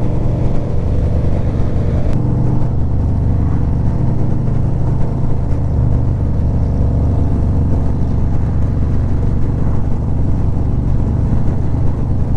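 Harley-Davidson V-twin motorcycle engine and exhaust running at a steady pace while riding.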